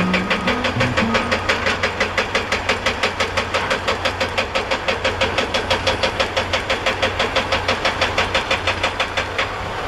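Engine of a heavy construction or farm machine running with a rapid, even knocking, about six knocks a second, over a steady low hum.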